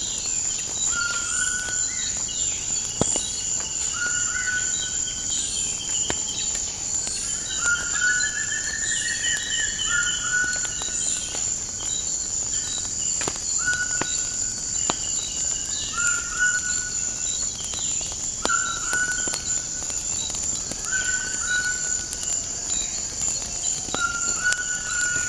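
Nature ambience: a steady, high insect drone of crickets or cicadas under birds repeating short calls about every two seconds, with higher quick upward chirps. A few sharp crackles from a wood fire stand out now and then.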